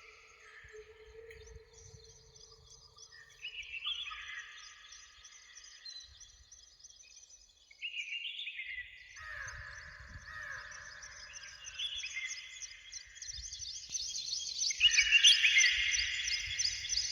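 Several songbirds singing in a woodland dawn chorus, their trilled and warbled phrases overlapping. The singing thins to a brief lull before the middle, then builds again and is loudest near the end.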